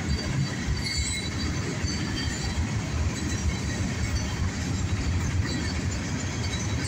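Freight train cars rolling past with a steady rumble of wheels on rail, with faint brief squeals from the wheels now and then.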